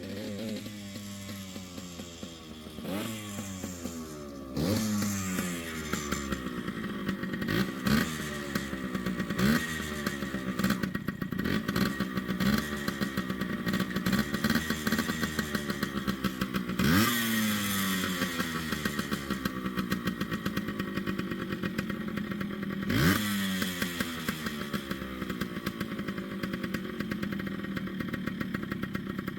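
Yamaha RT100's two-stroke single-cylinder engine running and being blipped, about eight times: each time the revs shoot up and then fall slowly back to idle, while the carburettor is tuned. The blips come close together at first and further apart later on.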